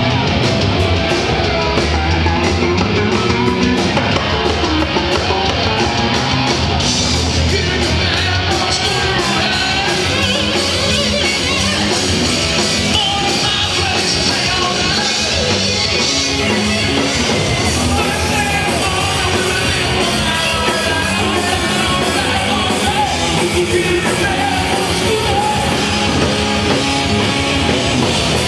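Live rock band playing loudly, with a lead singer over the band.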